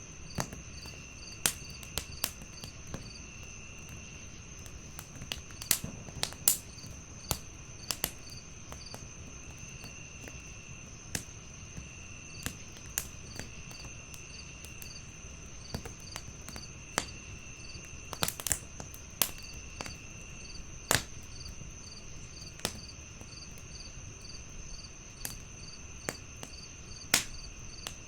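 Crickets chirping steadily in several overlapping high trills, one pulsing in a quick even rhythm, over a wood fire crackling, with irregular sharp pops that stand out above the insects.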